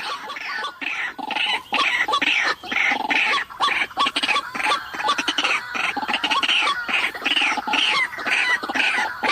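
White-breasted waterhen calling: a continuous run of short, repeated calls, several a second, with no pause.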